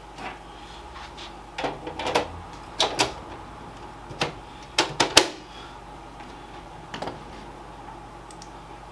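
Hard plastic and metal clicks and knocks from handling desktop PC hardware, several in quick pairs, the loudest a double knock about five seconds in. Underneath is a steady hum of running computer fans.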